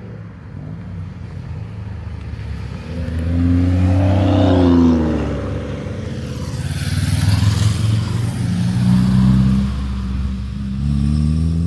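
Cars driving past one after another with their engines revving. The loudest pass comes about four to five seconds in, its engine note rising then falling, another loud pass follows a few seconds later, and a further engine note rises near the end.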